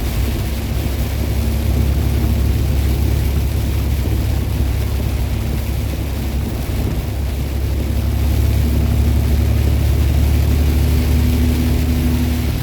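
Semi truck's diesel engine droning steadily, heard inside the cab while driving, with road noise; a higher engine tone strengthens near the end.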